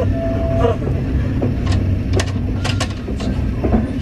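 Moving train running with a steady low rumble, with a few sharp clicks in the middle.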